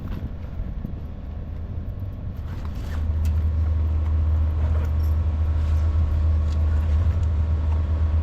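A car engine running with a steady low rumble that grows clearly louder about three seconds in.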